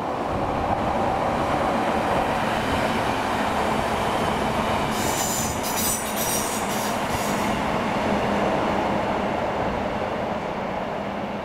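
A train running on the line, a steady loud rumble of wheels on rails, with a high squeal from about five seconds in that stops about two and a half seconds later.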